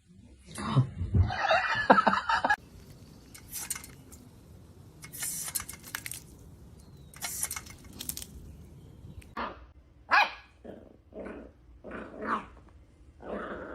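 A dog vocalising: a loud, rough outburst near the start, then a run of about seven short barks in the last few seconds.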